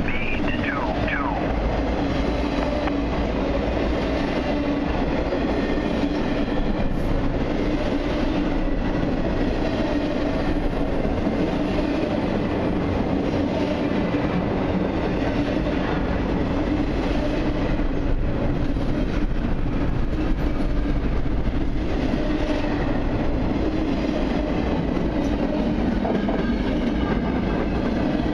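Freight train of double-stack intermodal well cars rolling past at steady speed: continuous wheel-and-rail noise with a clickety-clack over the rail joints.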